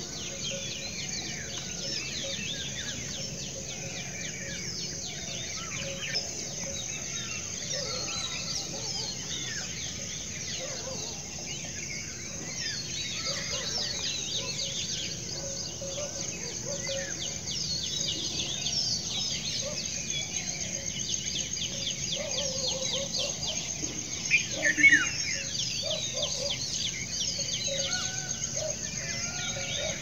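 Many birds chirping and calling over a steady high-pitched hum, with one louder burst of calls about five seconds before the end.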